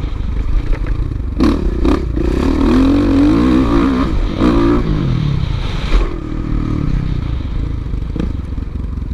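Motocross bike engine revving, its pitch rising and falling several times. A few sharp knocks and clatter are heard over it.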